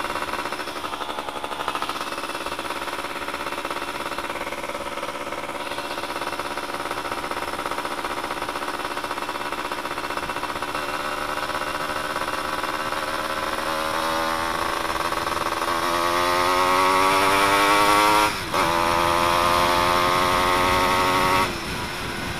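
Suzuki F1ZR two-stroke motorcycle engine running with its exhaust silencer insert removed, which makes it very noisy. The note is steady, then rises in pitch as the bike accelerates, and drops briefly twice near the end.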